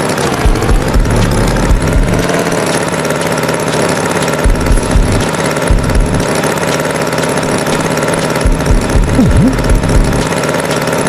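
Tractor engine running steadily, with uneven low knocks in the beat of the engine.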